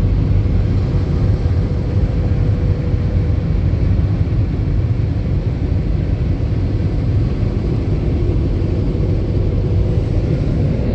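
Car wash tunnel air dryers, the side blowers and roof blower, running steadily with a loud rushing drone of blown air. A faint steady hum under it fades out about halfway through.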